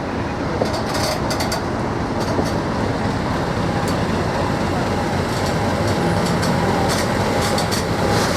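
Diesel locomotive running and passing by, a steady engine noise that grows louder toward the end, with scattered sharp clicks.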